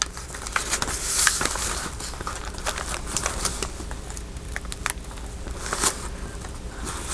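Paper rustling and crinkling as loose paper ephemera is handled, with scattered light taps and clicks.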